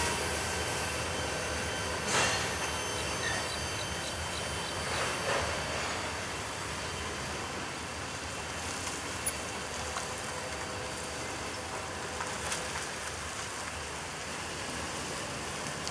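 Freight train of tank cars rolling away on the rails, a steady wheel-and-rail noise slowly fading, briefly louder a few times.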